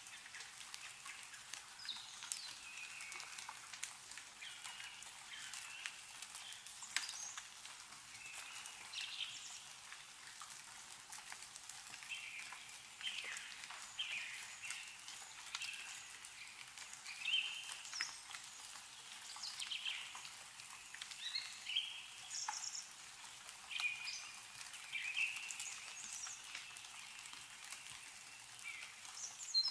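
Small birds chirping and calling over and over, with scattered drips of meltwater falling from snow-covered trees.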